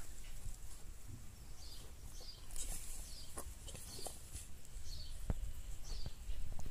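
A small bird chirping over and over, short falling chirps about one a second, with a few light clicks.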